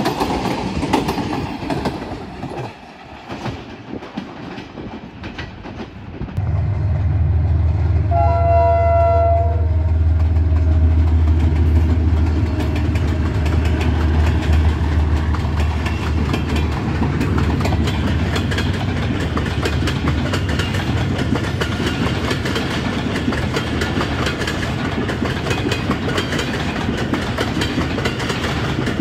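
Pakistan Railways passenger train passing: coaches roll by, then a diesel locomotive's deep engine drone comes in about six seconds in and it gives one short horn blast a couple of seconds later. Passenger coaches follow, their wheels clattering steadily over the rail joints.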